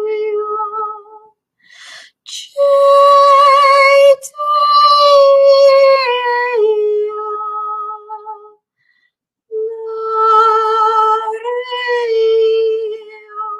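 A woman toning: wordless, high sung notes, each held for a second or more with a slight waver. The notes come in phrases that step down in pitch, with short pauses for breath between them.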